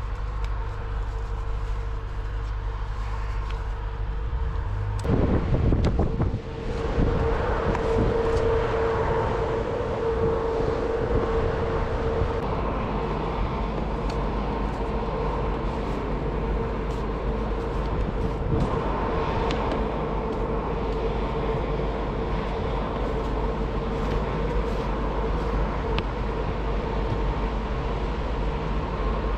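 A motor running steadily with a constant whine over a low rumble. It gets louder and rougher for a couple of seconds about five seconds in, then settles back into the steady whine.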